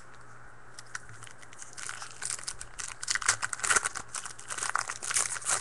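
Foil trading-card pack wrappers crinkling and tearing as they are handled and opened, starting about two seconds in.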